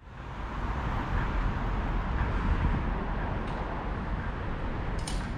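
Steady rumbling running noise of a train, with a faint click partway through and a short sharp clatter near the end.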